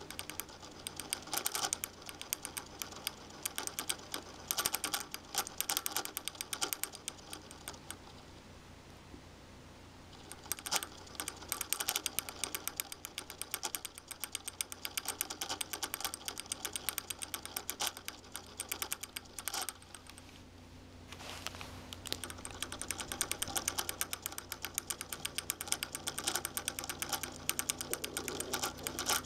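Sony VAIO VGN-CS220J laptop's cooling fan making a rapid, irregular clicking rattle in long bursts over a steady low hum, easing off briefly about a third of the way in and again about two-thirds through. It is a faulty fan that the owner means to replace.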